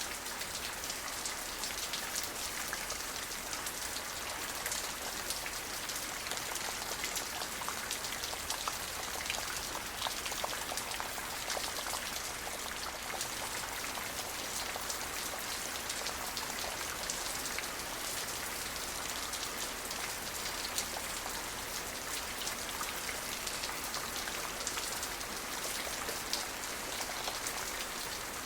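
Steady rain falling, with many fine drops pattering on a surface in an even hiss and no thunder.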